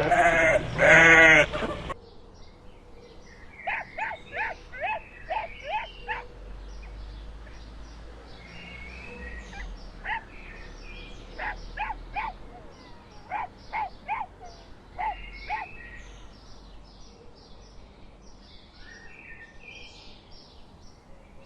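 Farm animals calling: a long, loud bleat with a quavering pitch in the first two seconds, then softer short calls repeated in clusters of four to six, with faint bird chirps behind them.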